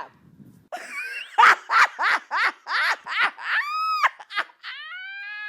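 High-pitched vocalizing: a quick run of short laugh-like yelps, about three a second, then a long high whine held to the end.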